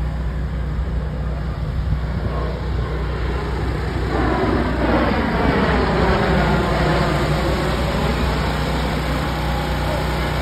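Piston-engined propeller aircraft flying low past, its engine drone swelling about four seconds in and then easing off, with the falling, sweeping tone of a flyby. A steady low hum runs underneath.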